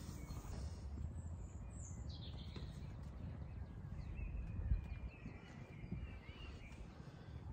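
Faint birdsong: a high call sliding down about two seconds in and thin chirps a little later, over a steady low rumble, with one soft bump near the middle.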